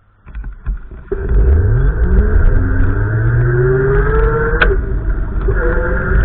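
A motor vehicle engine accelerating, its pitch rising steadily, then dropping about four and a half seconds in as it changes gear and climbing again, over a heavy low rumble.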